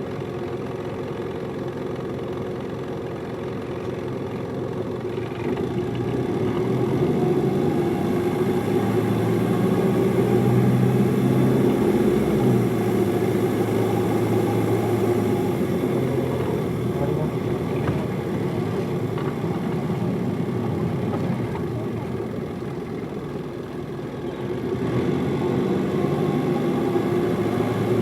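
Hino Liesse bus's diesel engine heard from inside the cabin while the bus is driven: it runs quietly at first, grows louder and pulls harder from about five seconds in, eases off, dips near the end, then picks up again.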